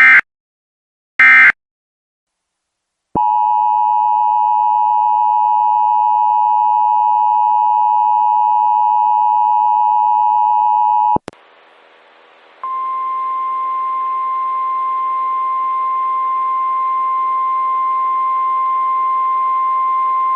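Emergency Alert System sequence: two short screeching SAME header data bursts, then the EAS two-tone attention signal held for about eight seconds. It cuts off with a click, radio static hiss comes up, and a second and a half later a steady single-pitched NOAA Weather Radio 1050 Hz warning alarm tone sounds over the static.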